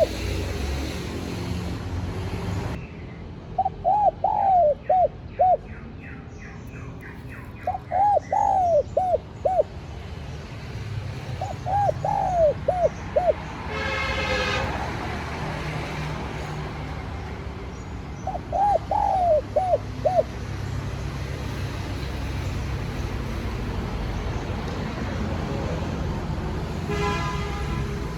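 Spotted dove cooing: four phrases of several short rising-and-falling coos, a few seconds apart, over a steady low background rumble.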